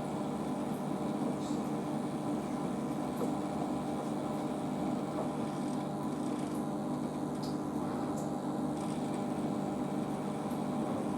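Washing machine drum spinning steadily at about 500 rpm in an interim spin, a constant hum and rumble from the motor and drum.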